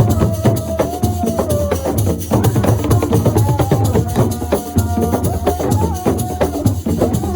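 Senegalese assiko music: dense, driving hand percussion with rattling, wood-block-like strokes under a sustained melody line.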